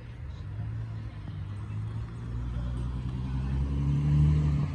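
A car engine running nearby, getting louder from about halfway through as it comes closer or revs slightly, then fading quickly near the end.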